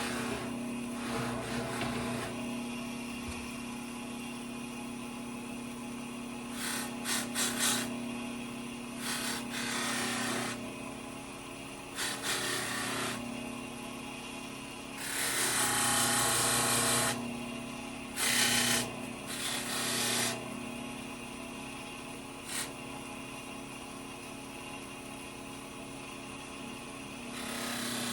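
A power tool running with a steady hum, broken by about seven harsh bursts as work is pressed against it. The longest and loudest burst comes about halfway through.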